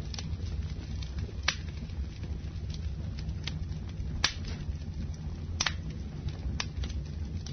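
Campfire burning with a steady low rumble and sharp wood crackles and pops every second or so, the loudest about four and five and a half seconds in.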